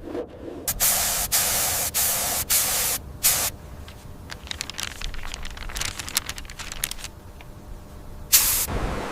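Spray gun hissing in a series of short bursts as a coating is applied. Quieter crackling ticks follow, then one more loud burst near the end.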